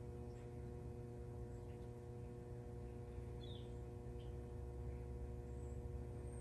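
A steady low electrical hum, with a few faint small clicks about three seconds in.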